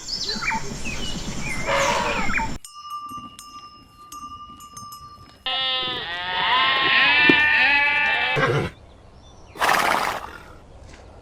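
A flock of livestock bleating, many overlapping calls at once for about three seconds in the middle. Before it come a shorter animal sound and a stretch of thin steady tones with faint ticks, and a brief noisy burst follows near the end.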